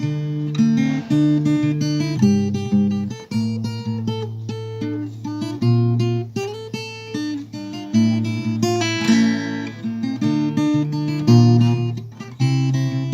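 Acoustic guitar music, with plucked notes and strummed chords.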